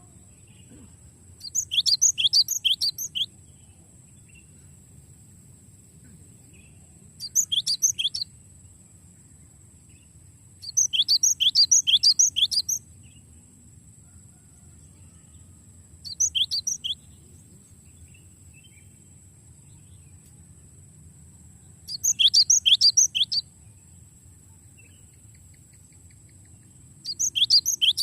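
Cinereous tit (glatik batu) singing: six phrases, each a quick run of high repeated notes lasting a second or two, with pauses of a few seconds between.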